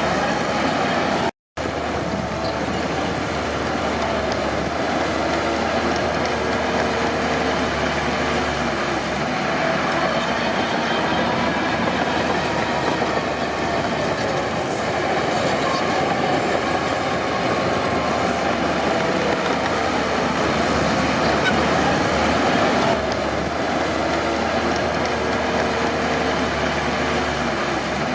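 Crawler bulldozer working: a steady diesel engine note under the clanking and squeal of its steel tracks. The sound cuts out for a split second about a second and a half in.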